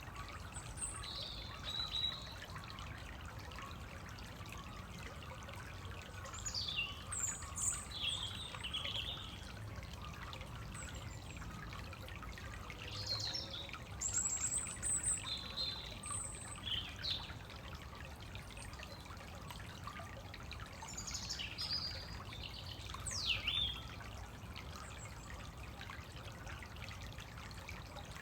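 Woodland songbirds giving scattered short, high chirps and quick falling notes over the steady trickle of a stream.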